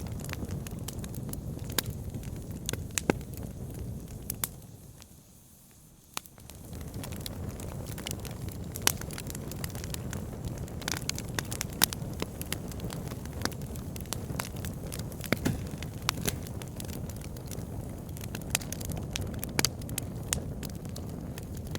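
Wood fire burning in a fireplace: a steady low rumble of flames with frequent sharp crackles and pops from the burning wood. The sound drops away briefly about five seconds in, then returns.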